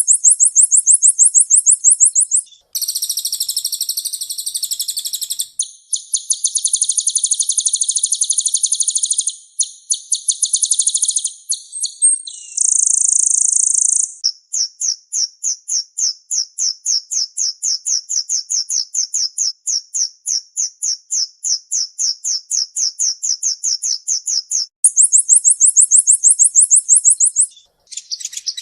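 A kolibri ninja sunbird singing a run of very high, rapid machine-gun trills, dense repeated notes in several distinct trill types that switch abruptly from one to the next, with a slower, evenly pulsed trill of about three notes a second through the middle.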